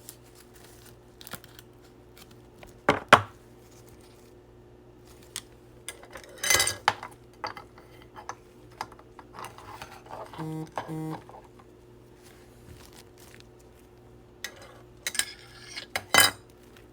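Cards and hard plastic card holders being handled on a table: scattered clicks and clacks, the loudest about three seconds in, six and a half seconds in and near the end. Two short buzzy tones sound about ten and a half seconds in.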